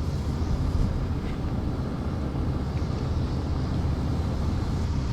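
Vehicle engine idling steadily: a low, even rumble.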